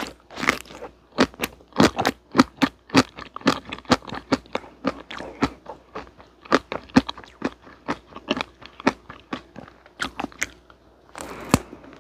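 Close-miked chewing of frozen vanilla ice cream cake flecked with chocolate: a steady run of wet mouth clicks and light crunches, about three to four a second. A louder fresh bite comes near the end.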